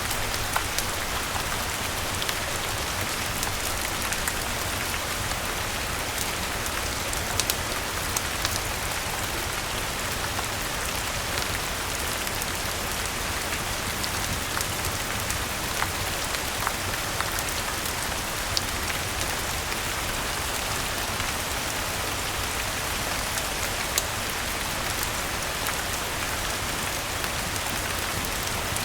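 Steady rain falling on garden leaves, an even hiss with scattered small sharp ticks and pops, mixed with the soft crackle of a wood fire in a fireplace.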